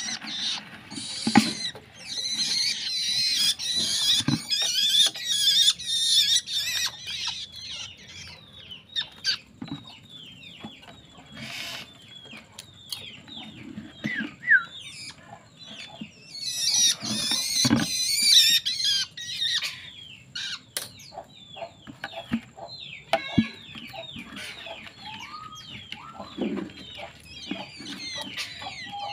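A young long-tailed shrike calling: rapid runs of short, high, downward-sliding chirps, breaking twice into dense harsh chattering, with a few sharp knocks in between.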